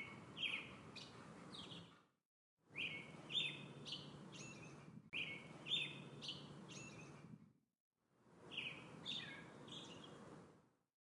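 A songbird repeating the same short phrase of quick, falling chirps four times over a soft background hiss. The sound cuts out to dead silence between phrases.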